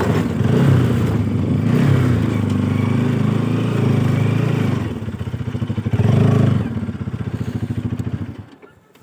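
Bajaj Pulsar RS200 motorcycle engine running on the road, then slowing to a low, pulsing idle with a short burst of throttle about six seconds in. It falls quiet shortly before the end as the bike stops.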